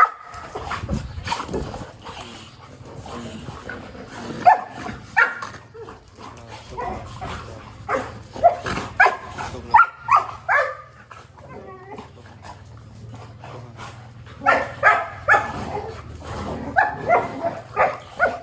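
Labrador retriever barking and whining in several clusters of short yelps separated by pauses, with one longer wavering whine about ten seconds in.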